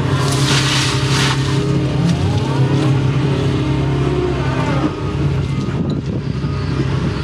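Excavator's diesel engine running steadily under load, heard from inside the cab, with a hydraulic whine rising and falling in pitch as the machine digs and swings. A brief rushing hiss comes in shortly after the start.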